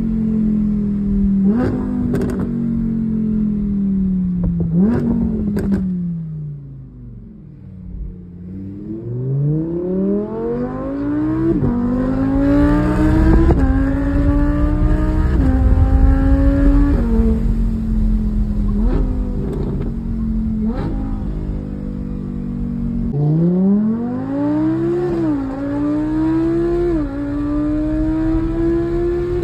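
Audi R8 V10 Plus's naturally aspirated V10 through a Quicksilver exhaust, heard from the passenger seat. The revs fall with a quick blip and a few sharp cracks, drop almost to idle, then the engine pulls hard with rising pitch through several quick upshifts, settles to a steady cruise, and pulls hard again through more shifts near the end.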